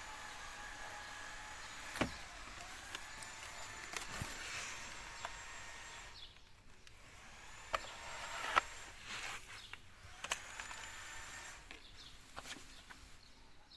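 Faint handling noise: scattered clicks and knocks over a low steady hiss, with one clear knock about two seconds in and a few more later.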